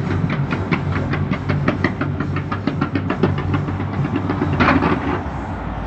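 Fireworks display going off: a rapid string of sharp bangs, about five or six a second, then a louder cluster of bangs about four and a half seconds in.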